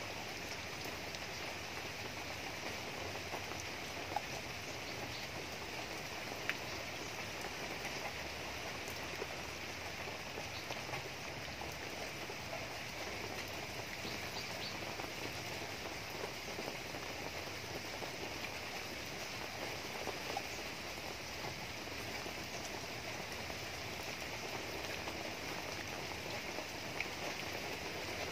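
Steady rain falling on leaves, with a few louder single drips now and then.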